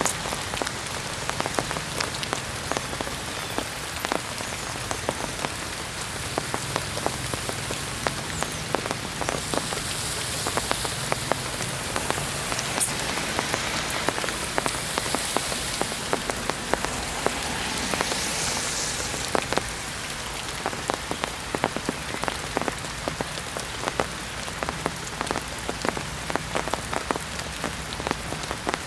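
Heavy rain falling steadily, with many close drops ticking and spattering on surfaces.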